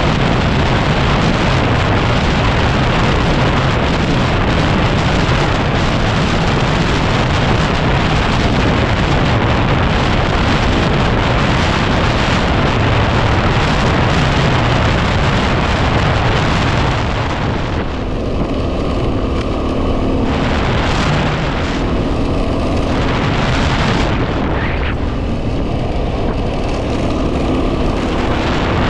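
Heavy wind buffeting on the microphone of a moving 2010 Yamaha WR250R trail bike, a dense roar over the single-cylinder engine. About two-thirds of the way through, the wind roar drops back in patches and the engine's steady note comes through faintly.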